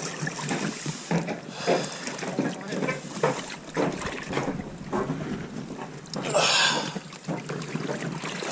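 Water sloshing and knocking around small inflatable boats, with wind on the microphone. A louder splashing rush comes about six and a half seconds in.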